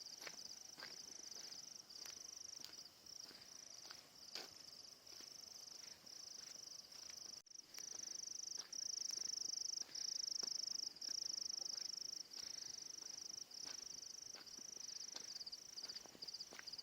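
Crickets chirping in a steady high-pitched trill, louder and in longer unbroken runs in the middle, with scattered faint clicks.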